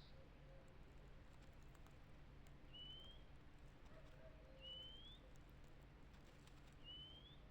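Faint bird song: a thin rising whistle repeated three times, about two seconds apart, with faint lower wavering notes in the background.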